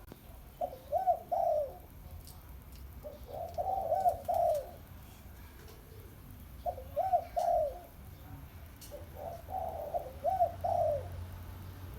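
A spotted dove cooing: four short phrases, each of a few rising-and-falling coos lasting one to two seconds, repeated about every three seconds. A faint steady low hum runs underneath.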